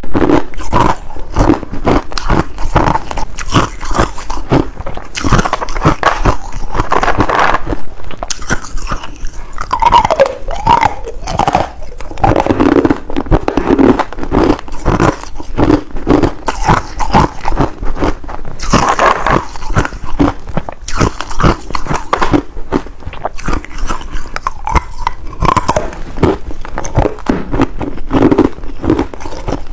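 Ice being bitten and chewed, a dense, continuous run of loud crunches and cracks.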